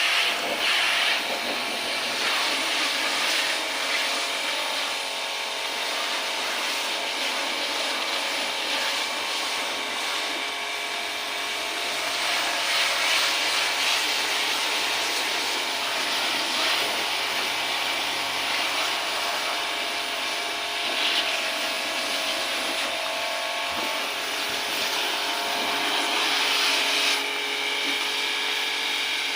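A motor-driven tool running steadily, with a rubbing, grinding sound over a whirr of several steady tones.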